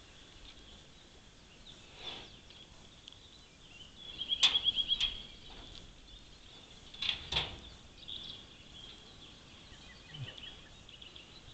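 Birds calling in the open: a rapid trill about four seconds in, then a couple of sharp chirps about three seconds later, over a faint steady high background.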